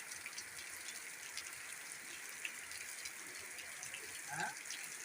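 Steady rain falling, an even hiss with scattered tiny drop ticks. A short rising chirp sounds once, about four seconds in.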